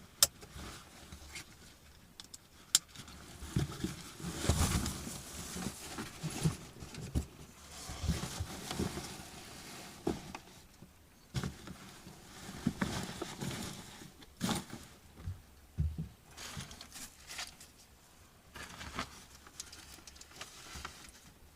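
Someone handling things at close range: irregular rustling with scattered light knocks and clicks.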